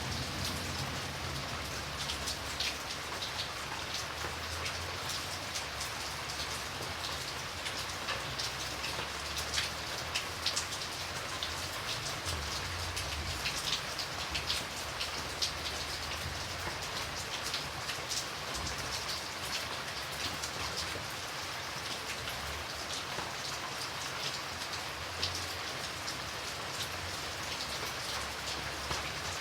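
Steady rain falling, with a dense patter of individual drops hitting a surface and a faint low rumble underneath.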